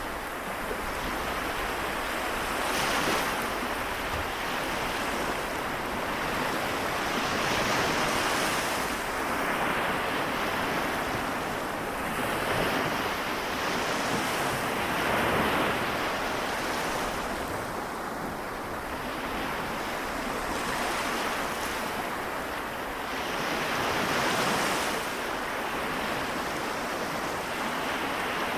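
Small sea waves of the Seto Inland Sea washing onto the shore: a continuous rushing wash that swells every few seconds as each wave breaks.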